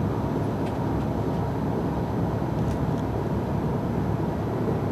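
Steady rumble of a passenger train running, heard from inside the carriage, with a couple of faint clicks.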